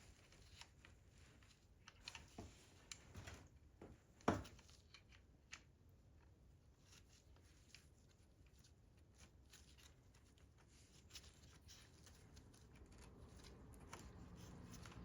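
Near silence with scattered faint clicks and light taps, and one sharper knock about four seconds in.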